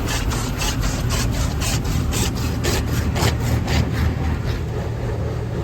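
Automated car wash brushes swishing and slapping against the car body in a rapid, even rhythm of about four strokes a second, heard from inside the car, thinning out near the end, over a steady low rumble.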